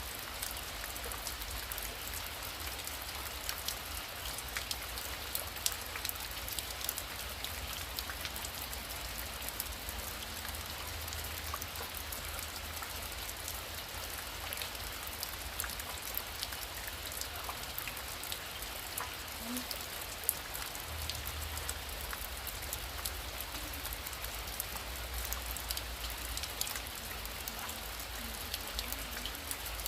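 Heavy rain falling steadily, thick with sharp ticks of individual drops striking a surface, over a steady low rumble.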